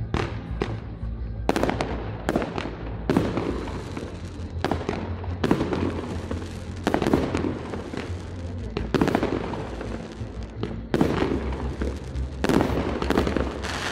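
Fireworks display: aerial shells bursting one after another in sharp bangs, roughly one a second, each trailing off in an echo, with music playing underneath.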